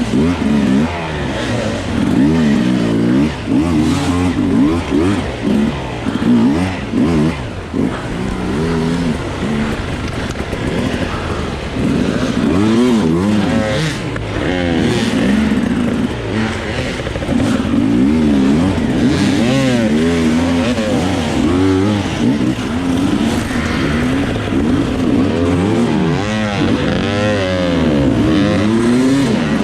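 Enduro dirt bike engine revving up and down constantly as the rider works the throttle over rough ground, heard from on the bike.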